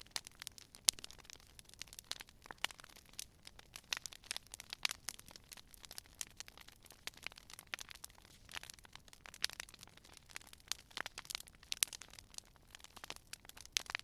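Campfire crackling: burning wood giving off frequent, irregular sharp pops and snaps over a faint hiss, a few pops louder than the rest.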